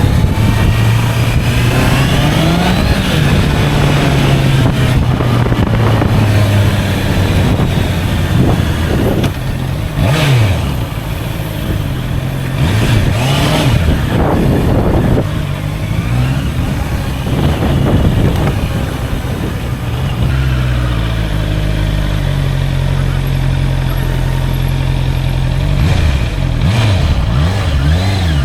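Honda CBR650R inline-four engine under way, revving up and easing off through several gear changes, with a steadier cruising stretch late on.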